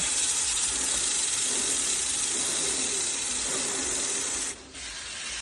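Aerosol chain lube spraying onto a motorcycle chain's rollers: one steady hiss lasting about four and a half seconds that cuts off suddenly.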